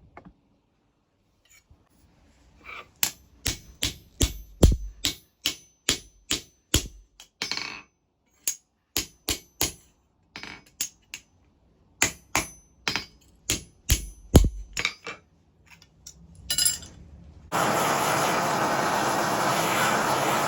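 Hammer blows on steel: an irregular run of sharp, ringing metallic strikes, about two to three a second with short pauses. Near the end a loud steady rushing noise starts up.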